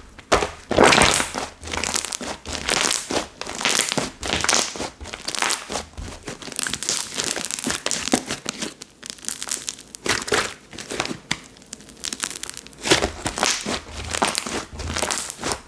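Slime being worked by hand, giving a steady run of irregular, close-packed crackles and squishes.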